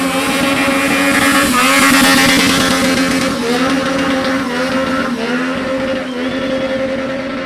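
Stunt motorcycle engine held at high revs, dipping briefly and recovering about every two seconds, with a steady hiss over it.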